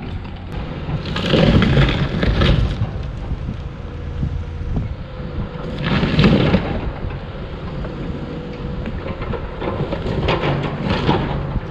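Wooden boats being smashed up by heavy machinery: three loud crunching crashes, about a second in, around six seconds and again near the end, over a steady low engine rumble.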